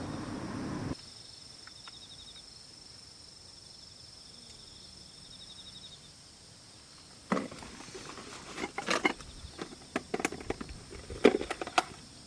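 A hiss that cuts off about a second in, then steady high insect trilling in quiet surroundings; from about seven seconds in, a run of irregular clicks, knocks and clatters.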